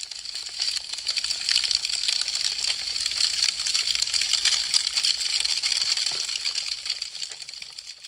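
Wood fire crackling: a dense, continuous patter of small sharp pops and snaps. It swells in over the first second and fades away near the end.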